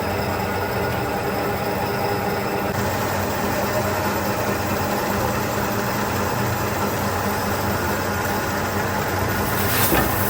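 Factory machinery running with a steady mechanical hum and noise. The high hiss drops away a few seconds in, and there is a brief sharp click near the end.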